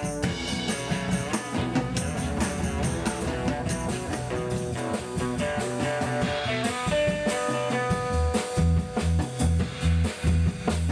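A rock band playing: guitar over bass and drums. Partway through a guitar note is held, and a low bass note starts pulsing about twice a second.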